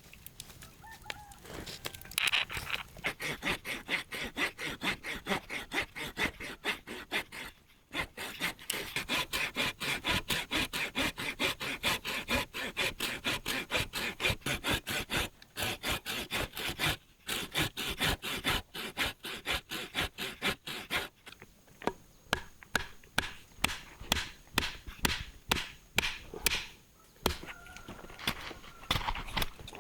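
Rapid, repeated scraping and knocking strokes, several a second, running on with a few short pauses.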